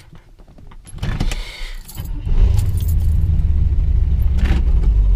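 Small-block V8 of a 1979 Camaro Z28 heard from the cabin: quiet at first, then a rush of noise about a second in, then a loud, steady low engine drone from about two and a half seconds in.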